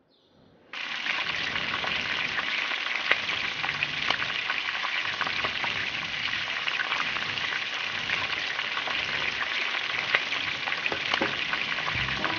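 Marinated paneer and vegetable skewers frying in a small pan, sizzling with scattered crackles and pops. The sizzle starts suddenly just under a second in and then holds steady.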